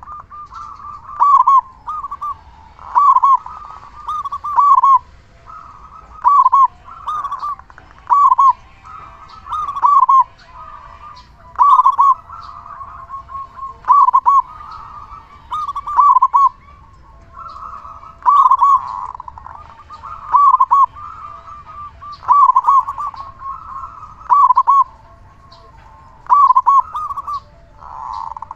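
Zebra dove (perkutut) singing its rolling cooing song, phrases repeated about every two seconds, loud and full-voiced.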